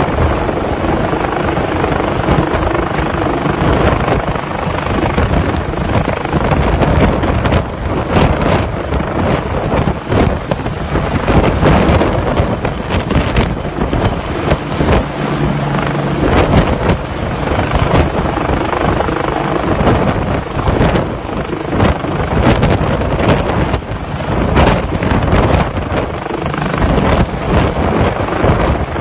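Helicopter hovering close by, its loud rotor and engine noise mixed with heavy wind buffeting on the microphone.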